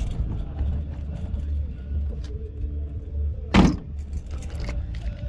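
Low, steady rumble of a car engine running, with a brief loud sound about three and a half seconds in.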